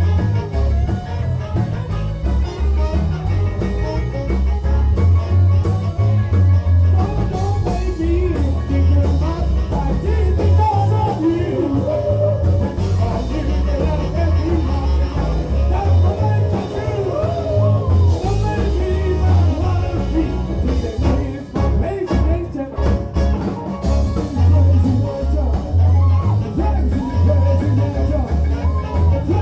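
Live rock-and-roll band playing with a singer's voice over a heavy, booming bass.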